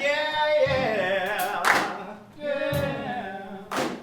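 Voices singing a musical-theatre song, held notes sliding between pitches, with sharp percussive hits roughly every second.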